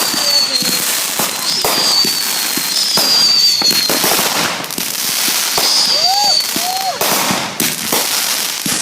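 Dense fireworks barrage: many sharp bangs close together over continuous crackling, with several high whistles, each sliding slightly down in pitch.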